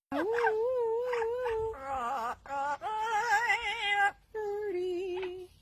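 A high voice holding a series of long, wavering pitched notes, each lasting up to about a second and a half, with short breaks between them.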